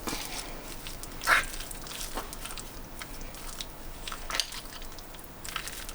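Minced beef and ham being mixed with broth and oil, soft squishing with occasional light clicks.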